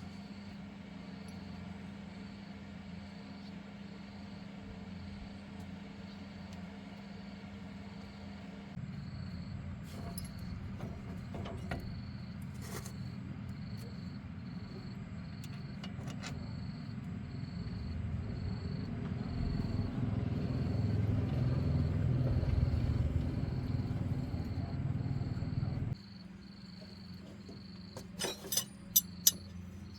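A 30-year-old car's engine running with a steady low hum and a faint regular ticking. It grows louder about nine seconds in, builds to a peak past the middle, then cuts off suddenly a few seconds before the end, followed by a few sharp clicks.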